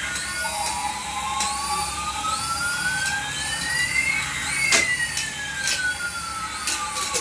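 Electronic siren-like warbling repeating about once every second, over a tone that rises steadily for about four seconds and then falls, with a few sharp cracks.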